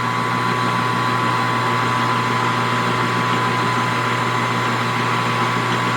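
Metal lathe running steadily in low range with no cut, warming up to get its oil circulating: an even hum with a steady high whine.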